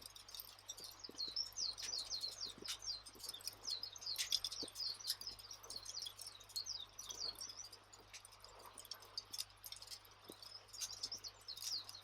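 Wood fire crackling with scattered sharp pops, under constant quick twittering of small birds.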